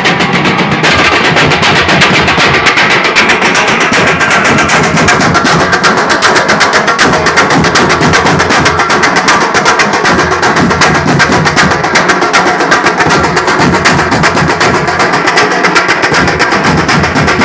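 Loud festival drumming: a drum troupe playing a fast, dense, unbroken beat of rapid strokes.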